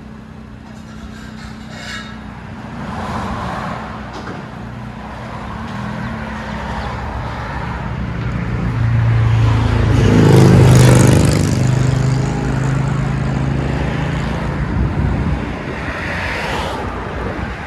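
Camaro 3.6L V6 with a Borla ATAK axle-back exhaust, heard from inside the cabin: a low drone that builds to its loudest about ten seconds in, then eases back.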